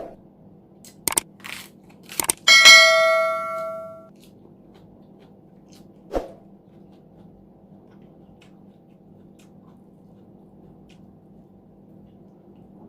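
Cutlery clicking against a plate a few times, then one strike that rings out and fades over about a second and a half, with a last click a few seconds later.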